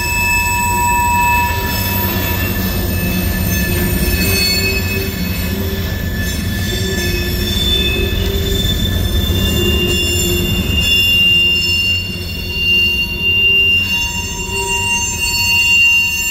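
Loaded covered hopper cars of a freight train rolling past. A steady low rumble runs under several high, thin squealing tones that fade in and out and change pitch as the cars go by.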